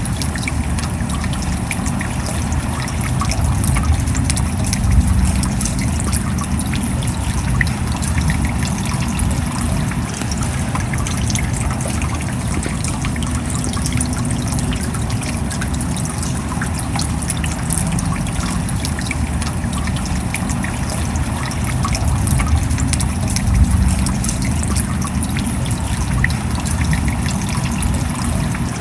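Steady rain with water trickling: a continuous rush full of small drop ticks.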